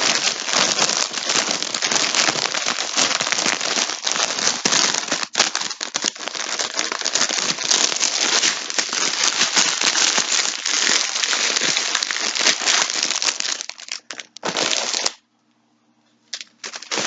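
Plastic packaging crinkling and rustling as it is handled, stopping about fifteen seconds in.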